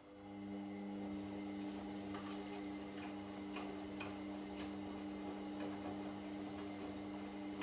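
Washing machine drum motor starting up and running with a steady hum. Light regular clicks come in a couple of seconds later, about two a second, as the drum turns with the laundry.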